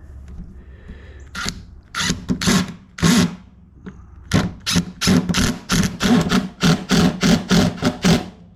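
Cordless drill/driver run in short trigger pulses, about three bursts a second with a brief pause in the middle, driving a screw into wood until it seats.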